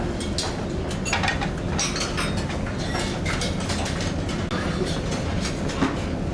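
Steady low mechanical rumble with frequent short, irregular rattles and clicks, as from a large ferry under way with its engines running and fittings rattling.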